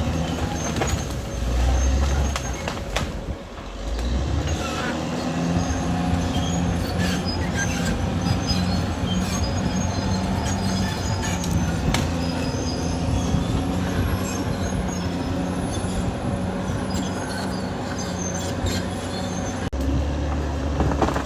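Caterpillar D6R XL crawler bulldozer working: its diesel engine runs steadily while the steel tracks clank and squeal, with many scattered knocks. Heavy low rumbles come about a second in and again near the end.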